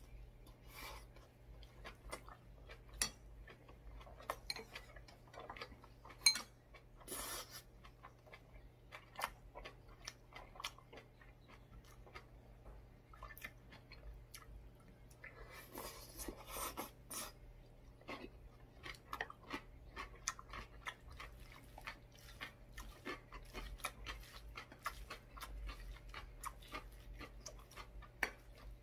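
Close-miked chewing of bean-sprout rice and crunchy seasoned radish salad, with wet mouth clicks and a few sharp taps of a spoon or chopsticks on the bowl.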